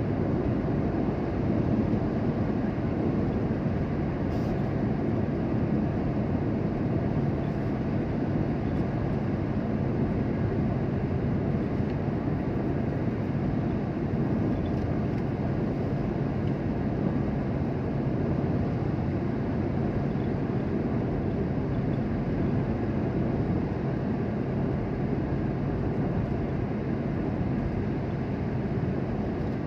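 Steady rumble of a motor vehicle running, a low even noise with a faint engine hum and no breaks or changes.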